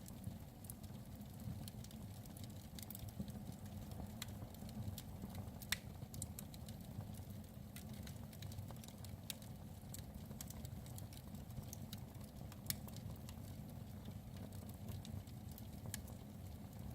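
Fire log crackling in a fireplace: sharp, irregular pops and snaps several times a second over a steady low rumble, with two louder pops about six seconds in and near thirteen seconds.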